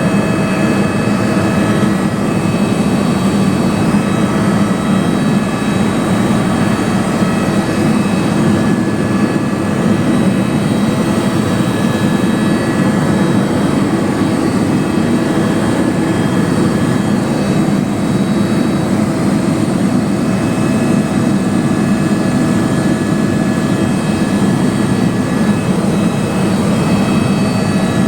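Helicopter in flight: a loud, steady rush of engine and rotor noise with several steady high whining tones, holding level without change.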